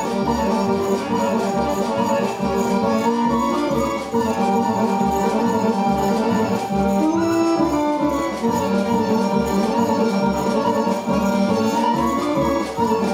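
Live Serbian folk dance music from a small orchestra, a reed instrument such as accordion playing running melody lines over a steady pulsing bass beat.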